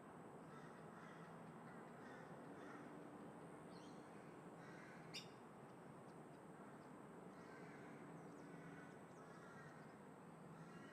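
Crows cawing faintly several times, with a faint steady hum through the middle and one sharp click about halfway through.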